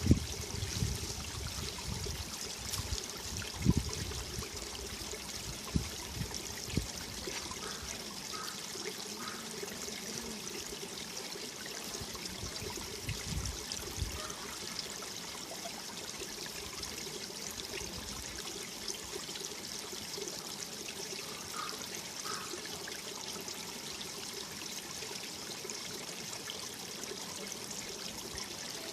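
Mountain valley stream running over rocks, a steady rush of water with trickling. A few low thumps break in during the first seven seconds and once more about fourteen seconds in.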